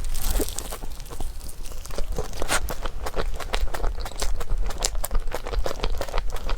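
Close-miked eating: dessert crunching and being chewed, with many short wet mouth clicks and crackles.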